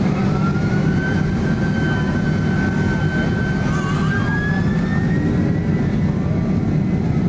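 Boeing 767 jet engines heard from inside the cabin: a loud, steady rumble with a thin whine that slowly rises in pitch, the engines spooling up.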